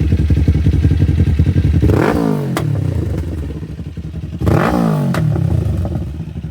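Kawasaki Ninja 500's parallel-twin engine through a Yoshimura AT2 full exhaust system, running, then revved up and back down twice, about two and four and a half seconds in. A sharp pop follows the first rev.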